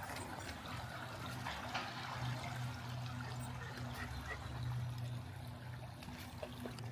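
Creek water running and trickling steadily, with a steady low hum underneath.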